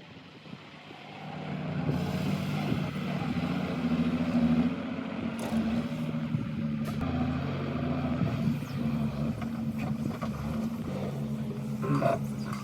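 Excavator engine running steadily, coming up in level about a second and a half in, with a few brief knocks over it.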